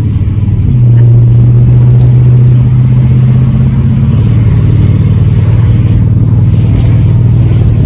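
1989 Audi V8's 3.6-litre V8 with a stainless-steel exhaust, heard from inside the cabin while the car is driven hard. Its low steady note gets louder about a second in and drops slightly in pitch about four seconds in. Hard driving like this is meant to clear carbon out of the engine.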